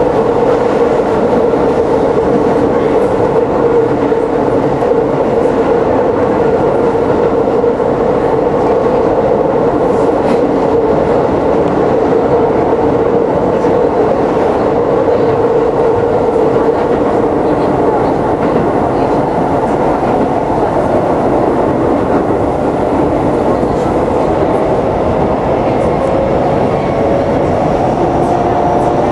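Keisei 3700-series electric train running along the line, heard from inside the car: a steady rumble of wheels on the track with a strong hum. A faint rising whine appears near the end.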